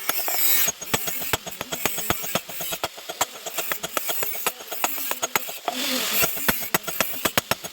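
Rapid, irregular hammer blows on steel, several a second, as a sickle blade is forged. A short rush of hissing comes near the start and again about six seconds in.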